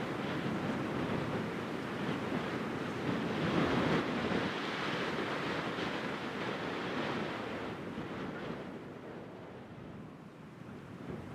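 Small waves washing onto the shore as a steady hiss, swelling to a peak a few seconds in and dying away after about eight seconds.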